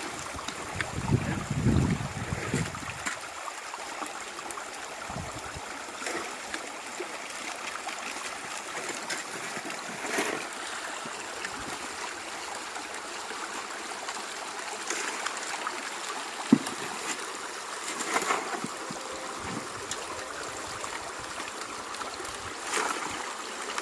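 Shallow river water running steadily over rocks, with a low rumble in the first few seconds and a few sharp knocks, the loudest about two-thirds of the way through.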